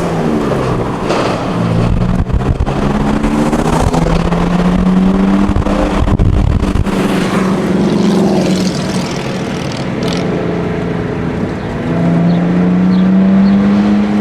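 Car engine and exhaust pulling hard through the gears, its pitch climbing in several long pulls and dropping back at each shift.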